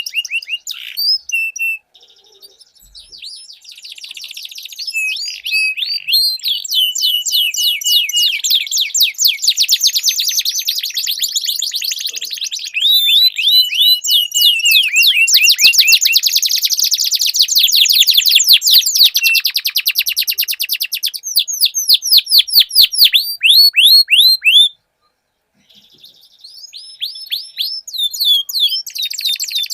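Domestic canaries singing long rolling trills: fast runs of repeated high notes, changing from one run to the next, with two brief breaks in the song, one about two seconds in and one near the end.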